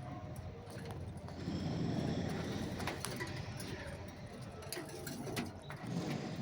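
Birds calling in low, rough tones, with a few sharp clicks scattered through.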